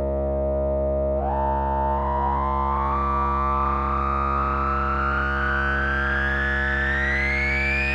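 Behringer TD-3-MO analog bass synth holding one sustained note while its resonant filter is swept open, so a bright resonant peak rises slowly and steadily in pitch from about a second in.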